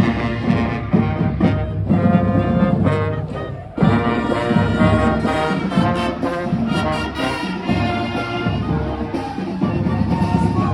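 A brass band playing, with held chords. The music dips about four seconds in and a louder passage starts abruptly.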